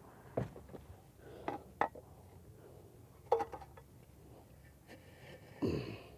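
A few separate short knocks and scrapes of hard material being handled, about five in all and the last the longest: concrete block-laying work with blocks and hand tools.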